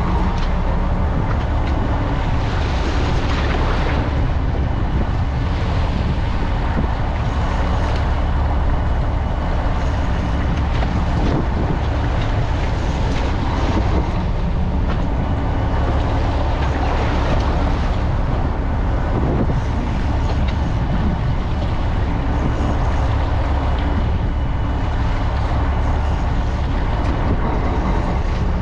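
Fishing boat's engine running steadily: a constant low drone under an even hiss.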